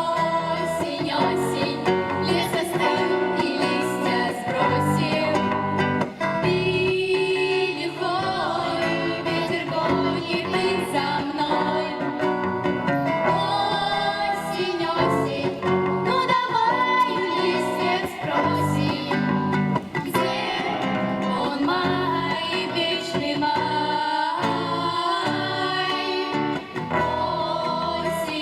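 Live song performed by a girls' vocal-instrumental ensemble: several female voices singing together over instrumental accompaniment with guitar.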